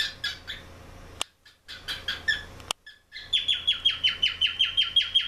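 Cockatiel chirping: a few scattered calls, then, from about three seconds in, a fast run of short, repeated chirps at about five a second.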